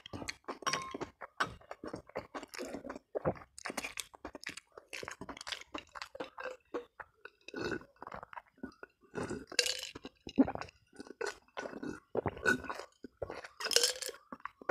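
Close-miked chewing and crunching of food, a rapid irregular crackle of bites, with now and then a light clink of cutlery on a plate.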